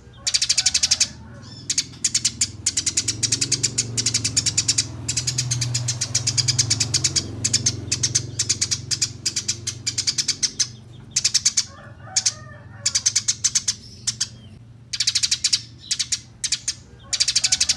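Eurasian tree sparrows chattering in fast, rolling runs of sharp chirps: the agitated calls of sparrows fighting. The runs break off in a few short pauses.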